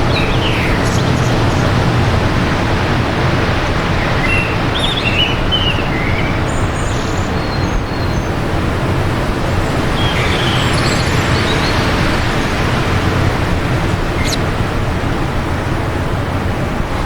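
Wind blowing steadily and loudly, with small songbirds chirping in short bursts of song now and then: near the start, about four seconds in, and again about ten seconds in.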